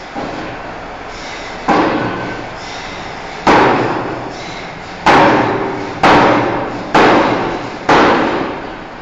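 Heavy forging-hammer blows on a steel bar: six loud strikes at uneven spacing, coming about once a second toward the end, each ringing and echoing away, with a lighter knock just after the start.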